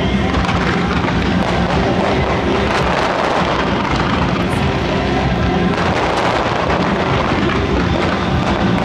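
Fireworks display in a dense barrage: many overlapping bangs and crackles going off continuously, with no let-up.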